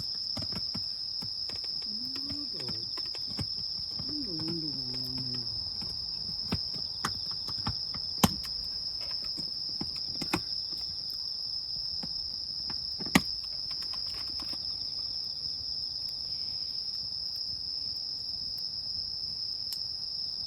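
Insects chirping in a steady, high-pitched, unbroken chorus, with scattered sharp pops and crackles from a wood campfire, the loudest about eight and thirteen seconds in.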